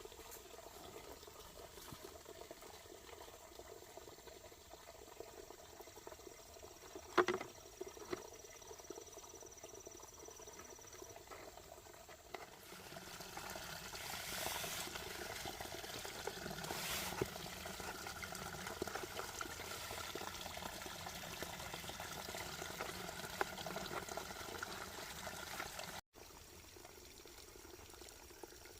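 Water trickling and pouring, quiet at first and louder from about halfway, with one sharp click about a quarter of the way in. The water sound cuts off suddenly near the end.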